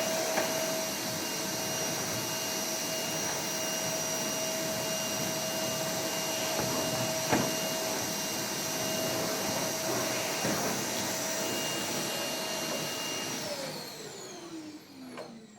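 A small electric motor running steadily with a rushing air noise and a high whine, then switched off about thirteen seconds in and winding down with a falling pitch.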